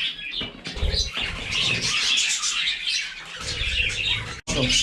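Pet budgerigars flying loose, with steady high chirping and chattering and two spells of wings fluttering close by, about a second in and again later on.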